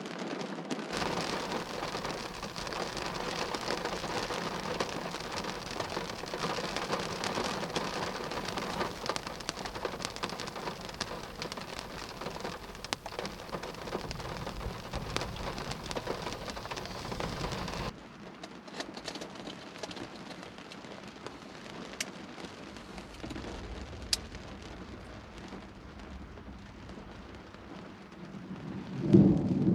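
Heavy thunderstorm rain falling steadily, with a few sharp drop ticks; about two-thirds of the way through it drops abruptly to a lighter rain. Just before the end a loud low rumble of thunder begins.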